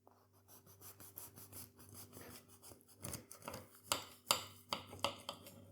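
A knife sawing back and forth through a burger on a plate, in a run of short strokes that grow louder about three seconds in.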